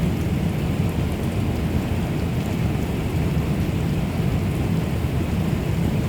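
Heavy cloudburst rain pouring down, a steady, dense rush that does not let up.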